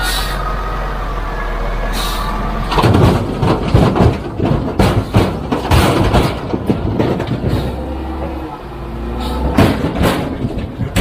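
Heavy diesel machinery running with a low rumble, then several seconds of rapid, irregular metallic clattering and knocking starting about three seconds in, with another short burst of knocks near the end.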